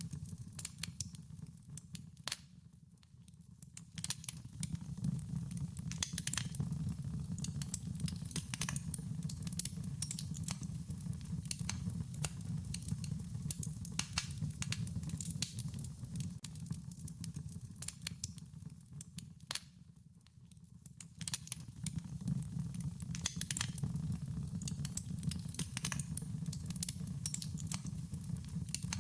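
Wood fire crackling, with frequent irregular pops and snaps over a steady low rumble of burning. It briefly quietens twice, about three seconds in and again about twenty seconds in.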